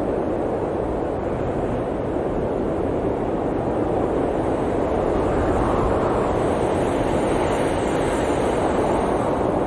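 Blizzard wind rushing steadily, swelling a little about halfway through.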